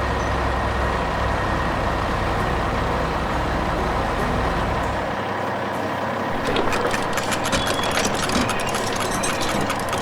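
Excavator engine running steadily with a deep rumble that drops away about halfway through, followed by a run of rapid clicks and clatter.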